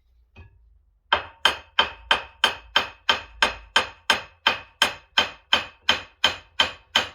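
Hammer blows on metal in a steady rhythm of about three a second, starting about a second in, each strike ringing briefly. The blows are knocking a small crank arm off its shaft on an old power hacksaw.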